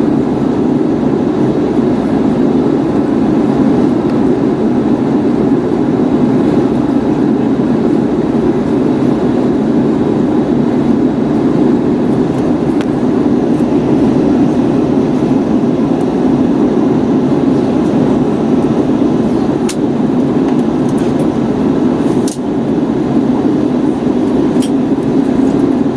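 Steady cabin noise inside an Airbus A321neo airliner: a constant rumble of engine and airflow, with a few faint clicks in the second half.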